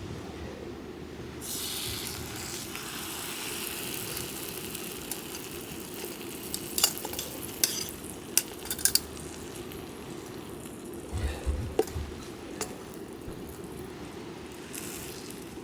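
Food sizzling as it fries in a pan, with a few sharp clicks of a metal utensil against the pan about halfway through.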